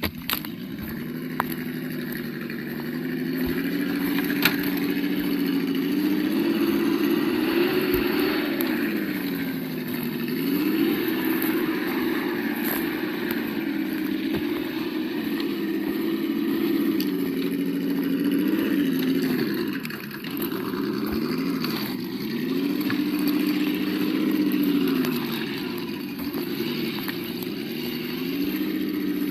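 Simulated engine sound from the sound module of an Absima Yucatan 1:8 RC crawler, its pitch rising and falling over and over with the throttle. A few sharp clicks come in the first few seconds.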